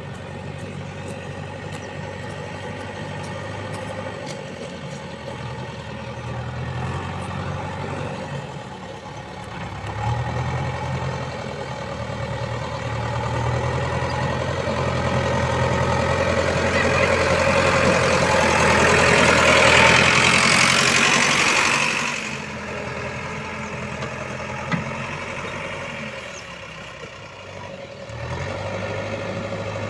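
Heavy diesel engine running, its note stepping up about ten seconds in and again near the end. A loud rushing noise builds from about sixteen seconds and cuts off sharply about twenty-two seconds in.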